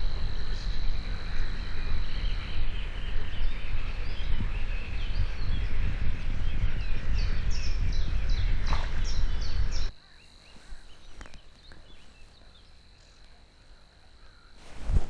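Outdoor nature ambience: a steady high insect trill, with a bird singing a run of quick chirps for a few seconds before the middle. Underneath is a loud low rumble that cuts off abruptly about two-thirds of the way through, leaving a quiet stretch with the trill still going. A short thump comes near the end.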